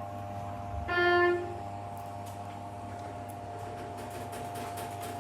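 A single low-pitched electronic chime from a Schindler 330A elevator's HT fixtures sounds about a second in and lasts about half a second, over a steady hum.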